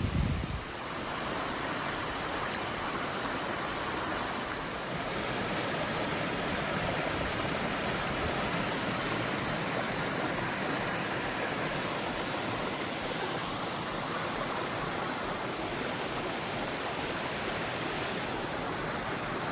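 Steady rush of water tumbling over a rocky creek cascade.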